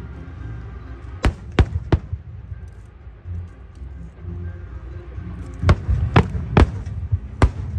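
Aerial fireworks bursting in a series of sharp bangs: three in quick succession about a second in, then four more from about five and a half seconds on, over a steady low rumble.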